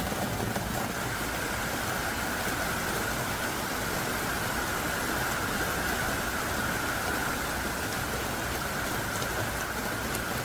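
Heavy downpour of thick raindrops falling steadily, an even, dense hiss with no let-up.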